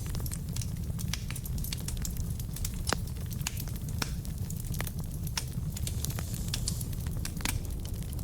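Wood fire burning in a fireplace: a steady low rumble of the flames with irregular sharp crackles and pops from the burning logs, one louder pop about three seconds in.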